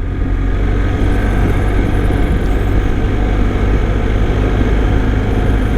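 Motorcycle engine running at a steady cruise while riding, with a steady rush of wind and road noise.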